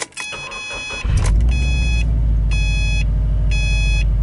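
A Subaru WRX's turbocharged flat-four engine is started: it turns over for about a second, catches, and settles into a steady idle. A dashboard warning chime beeps about once a second over the idle.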